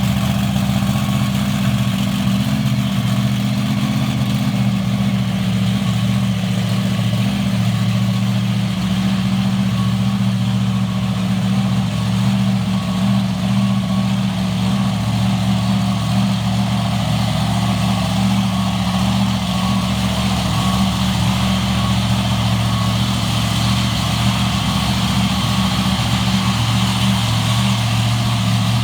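Large truck engine idling steadily.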